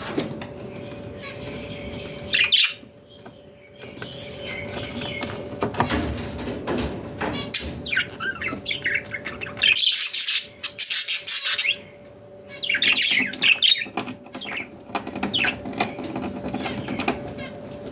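Budgerigars chirping and chattering in quick high-pitched spells, loudest about ten and thirteen seconds in, over a faint steady hum.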